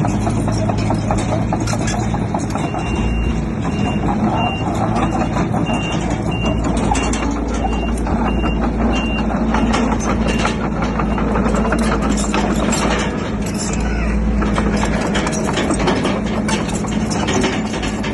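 A heavy diesel earthmoving machine runs steadily with clanking and clatter, likely a bulldozer working rock. A reversing alarm beeps about ten times at an even pace, starting a couple of seconds in and stopping around the middle.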